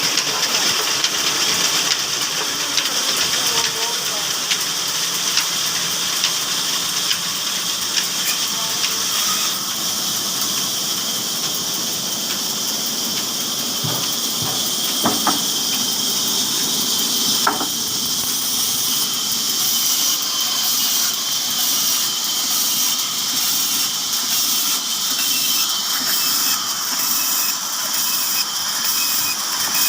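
Old Ruston Hornsby stationary diesel engine running steadily, heard as a constant hissing mechanical noise with faint regular beats.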